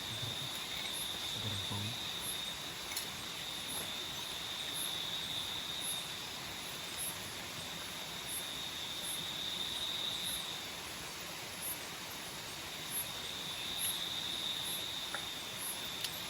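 Tropical forest nocturnal insects calling at night. One keeps up a continuous shrill high trill that swells and fades, while another gives short, very high chirps about one and a half times a second, over a steady hiss of rushing water.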